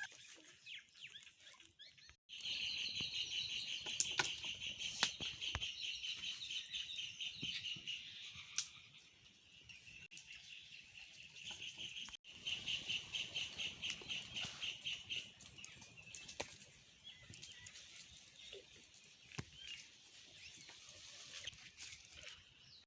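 A high, rapidly pulsing trill from a small animal, heard in two long stretches of several seconds each, with scattered faint clicks and knocks between.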